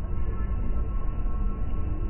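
Nilgiri Mountain Railway train rolling slowly, heard from inside the carriage: a steady low rumble with faint, steady high tones above it.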